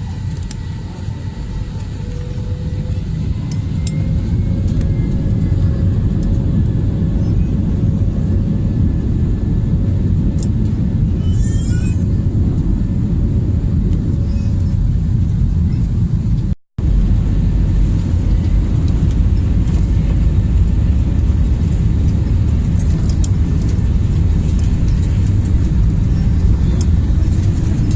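An Airbus A320's jet engines at high power, heard inside the cabin, with the heavy rumble of the takeoff roll. The engine tone climbs a little and the rumble grows louder over the first few seconds, then holds steady. The sound cuts out for an instant about two-thirds of the way through.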